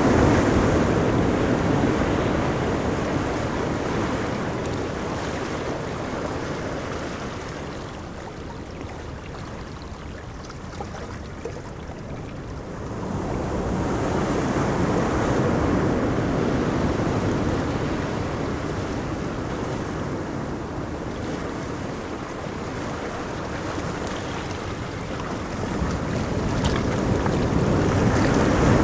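Ocean surf on a beach: waves breaking and washing up the shore in slow surges. It is loudest at the start, swells again about halfway through and near the end, and is quieter in between.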